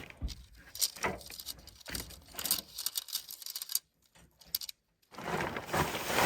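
Camping gear being handled: scattered light clicks, clatters and rustling. The sound cuts out to silence twice, briefly, about four to five seconds in.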